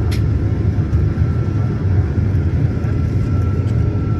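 Cabin noise inside a Boeing 737-900ER on the ground: a steady low rumble with a faint steady whine above it, and a short click just after the start.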